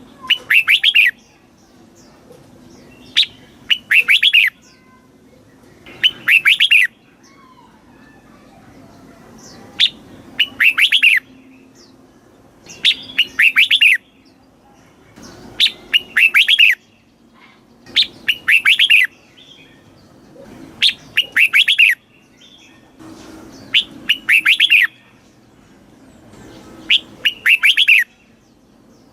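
Red-whiskered bulbul singing: short phrases of several quick, clear notes, repeated about every two to three seconds.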